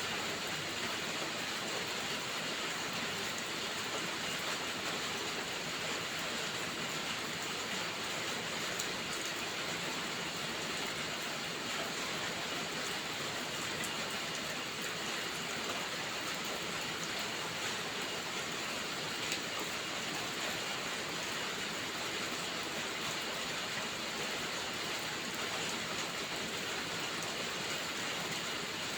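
Steady rainfall: an even, unbroken hiss with a few faint ticks.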